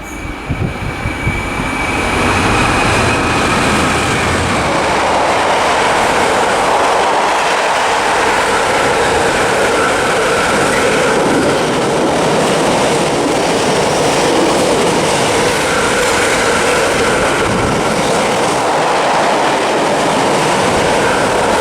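Class 66 diesel freight locomotive, with its two-stroke V12, passing through the station. Its low engine rumble fades after the first few seconds into the steady, loud run of a long rake of freight wagons rolling past on the rails, with faint wheel squeal.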